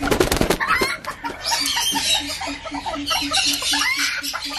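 Caged fowl clucking in a rapid, even run of short notes, about four a second, with other birds chirping higher up. A brief clatter comes in the first half second.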